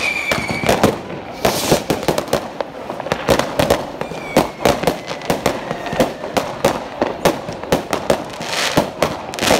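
Many fireworks going off at once: a dense, irregular string of bangs and pops, with two short, slightly falling whistles and a couple of bursts of crackle.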